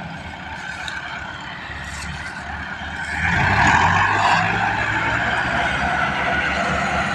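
Massey Ferguson 385 tractor engine running, getting louder about three seconds in and holding there.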